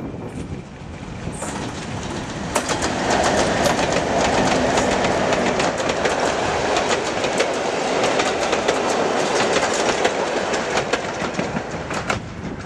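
Diesel-hauled passenger train passing close by: the noise swells as the locomotive goes past, then the coaches roll by with a steady run of wheel clicks over the rail joints, easing off near the end as the last coach clears.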